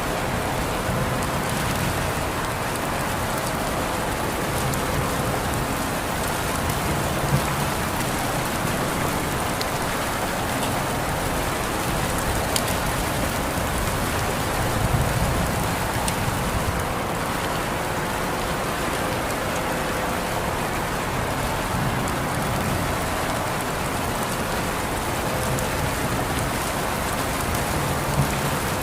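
Steady rain falling on a surface, an even hiss with occasional louder drops.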